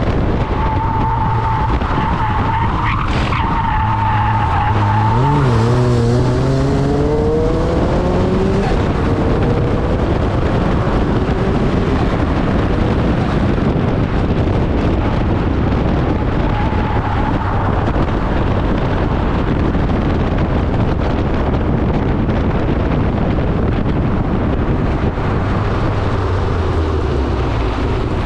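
Turbocharged Mazda MX-5 on a hard run, with loud engine, wind and road noise. A steady squeal of tyres sliding through a corner lasts for the first six seconds or so. Then the engine note climbs as the car accelerates out of the corner.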